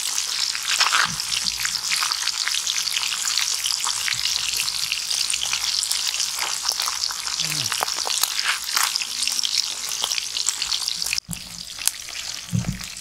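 Pieces of catfish frying in hot oil in a small aluminium wok: a steady, dense sizzle with scattered crackles and pops. It drops abruptly to a quieter sizzle about eleven seconds in.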